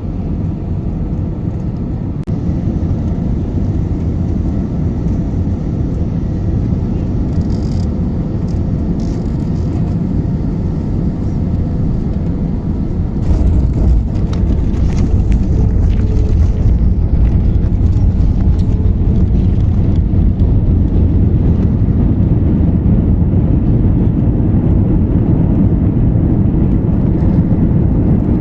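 Airbus A320 cabin noise: a steady low rumble of the engines and airflow. It steps up in loudness about halfway through and stays louder.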